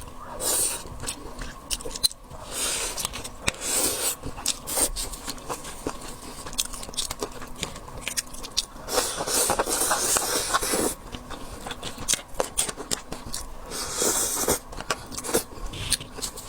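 Close-miked eating of seafood: dense wet chewing with clicks and crackles, broken by several louder scraping, crunching spells.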